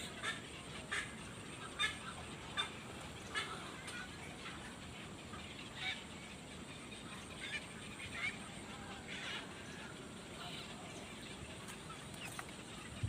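Short bird calls repeated at irregular intervals, a half second to a second apart, over a steady background hiss.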